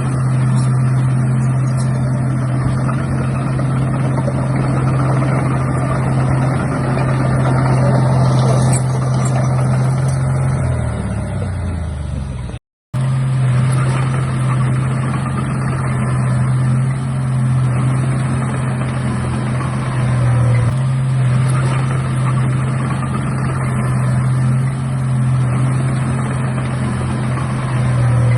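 Komatsu D31A bulldozer's diesel engine running hard with a steady drone. About eleven seconds in the engine note sags lower, the sound breaks off for a moment, then the steady drone returns.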